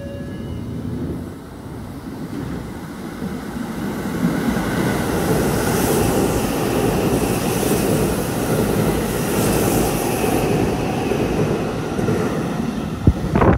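Seibu Ikebukuro Line train passing through the station at speed without stopping: the rumble of wheels on rail builds over the first few seconds, then holds as a loud, steady rush. Two sharp clicks come near the end.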